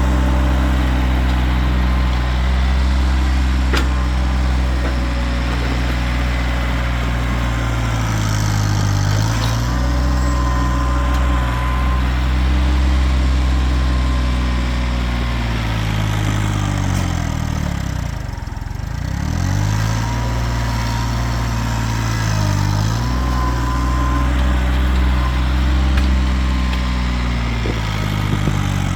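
Kioti tractor's diesel engine running steadily, its speed dipping and recovering several times, with one longer dip about two-thirds of the way through. A thin whine comes and goes above the engine.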